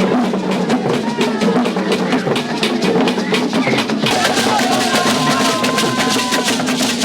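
Music carried by fast, steady drumming and percussion, with some held tones over it; the sound turns brighter about four seconds in.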